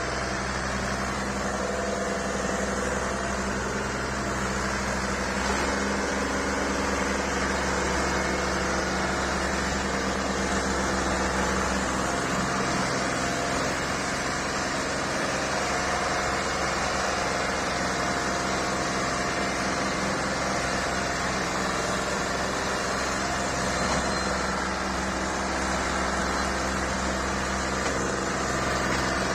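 Old Massey Ferguson tractor's diesel engine running steadily, with small shifts in its pitch.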